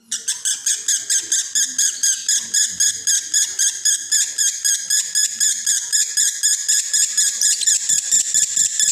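Male lovebird in breeding condition singing a long, unbroken 'konslet' chatter: high chirps repeated evenly at about six a second.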